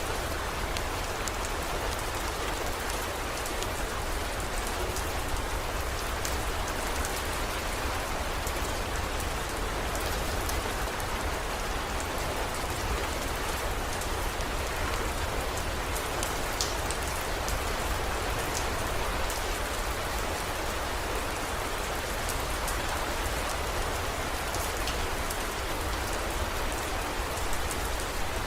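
Steady heavy rain pouring, with scattered sharp drop ticks and a low steady rumble underneath.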